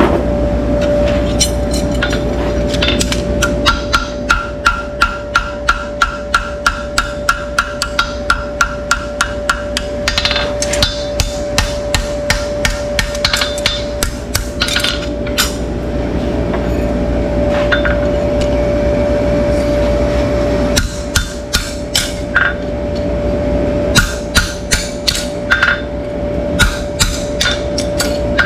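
Hammer striking in quick runs of about two to three blows a second during hoof work, with a steady hum underneath.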